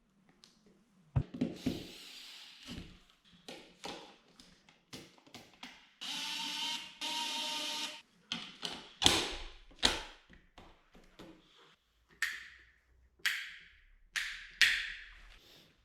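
Hand work at a job: a string of light knocks and taps, a small electric motor running for about two seconds in the middle, and four short hissing strokes near the end.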